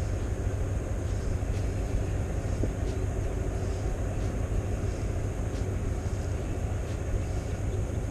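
Steady low rumble of a passing loaded river tanker's engine.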